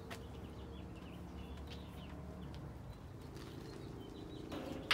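Faint bird chirps over quiet outdoor background. Right at the end comes a short rustle and one sharp metallic click: a spring-loaded ground clamp meeting the rim of a steel drum.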